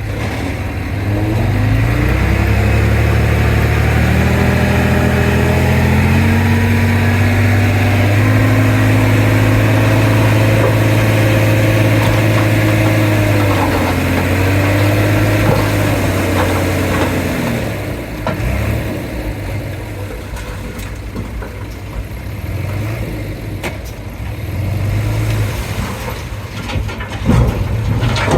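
Heavy diesel engine of earthmoving machinery revving up over the first few seconds, then held at high revs under load. About two-thirds of the way through it drops back to a lower, uneven running, with a few knocks near the end.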